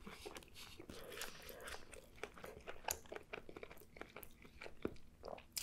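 Close-miked chewing of a mouthful of gyro in pita: quiet, wet mouth clicks and light crunches.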